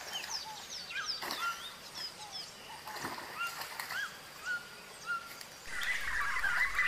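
Rainforest birds calling: several short whistled notes, some sliding down and some rising, repeating and overlapping. Near the end a louder, denser chattering joins in.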